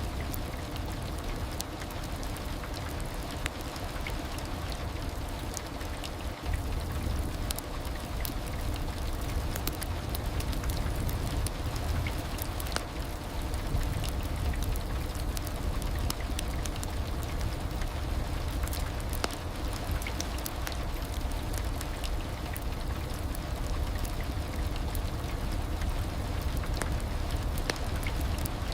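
Steady heavy rain ambience: a dense, even wash of rain, strongest in the low end, with scattered sharp ticks of individual drops.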